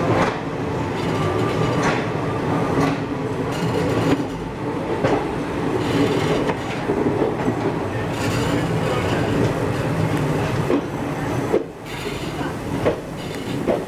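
Indian Railways passenger coaches rolling slowly out of the station: a steady rumble of steel wheels, with irregular clicks as they cross rail joints and points.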